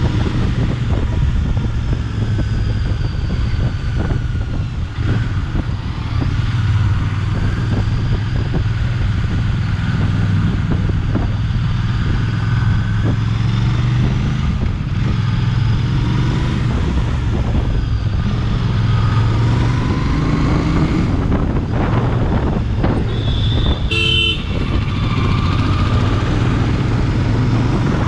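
Royal Enfield Bear 650's 648 cc parallel-twin engine running steadily while riding, with wind noise on the microphone. A vehicle horn toots briefly near the end.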